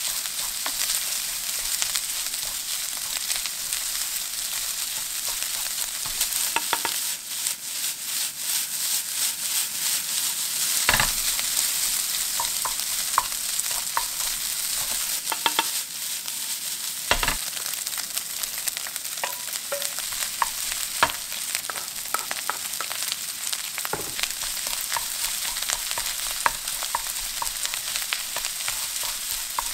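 Rice and shrimp sizzling steadily in a hot frying pan while a wooden spatula stirs them, knocking and scraping against the pan; two louder knocks come near the middle.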